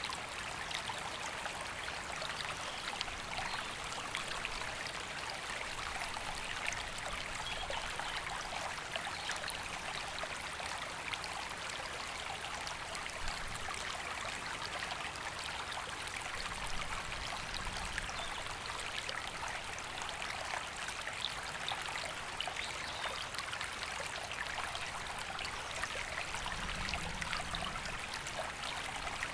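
River water flowing steadily: an even rushing hiss with many small splashes running through it.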